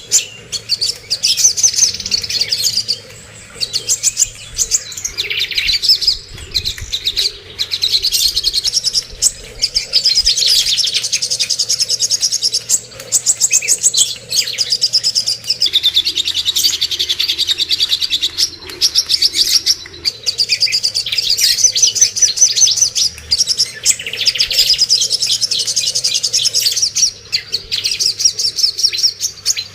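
Cucak kombo leafbird singing a long, fast, chattering song of rapid high notes in phrases broken by short pauses: a masteran recording played to teach songbirds that do not sing.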